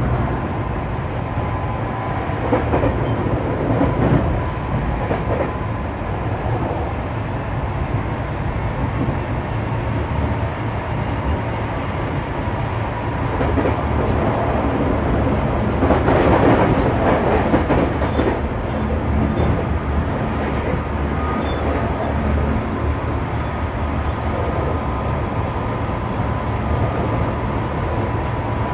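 Saitama Railway 2000 series electric train heard from inside the car while running: a steady rumble of wheels on track with a thin steady whine. The noise swells briefly a few seconds in and again past the middle.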